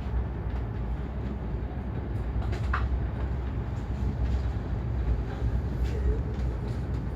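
Passenger train running along the track: a steady low rumble, with a brief higher squeal about three seconds in.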